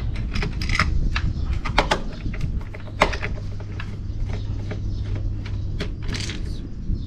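Irregular small clicks and light knocks of parts and hand tools being handled while the water heater's thermostat and wiring are taken off, the sharpest click about three seconds in, over a steady low hum.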